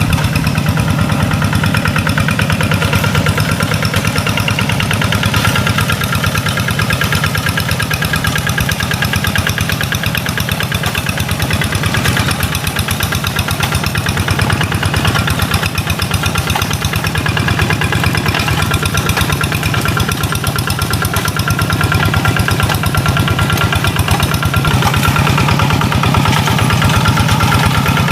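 Tractor engine running steadily, a continuous rumble with no pauses or sharp changes in speed.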